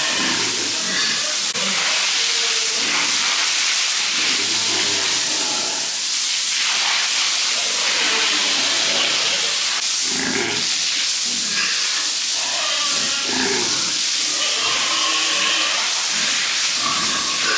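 Steady hiss of water spraying from a hose, with pigs grunting and squealing over it at intervals.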